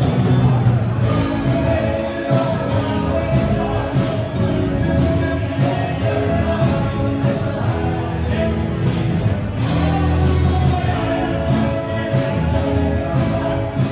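Live rock band playing, with a steady drum beat under sustained guitar and instrument tones.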